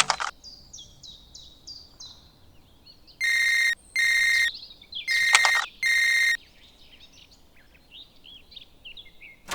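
Small birds chirping, with four loud, short electronic beeps in the middle, each about half a second long.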